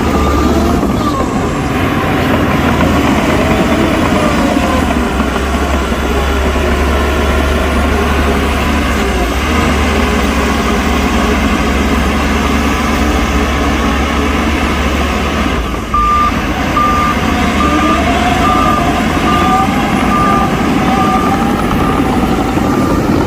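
Heavy diesel earthmoving machines running at a fill site, a deep steady engine rumble with some rising and falling revs. About two-thirds of the way in, a reversing alarm starts beeping steadily, about three beeps every two seconds.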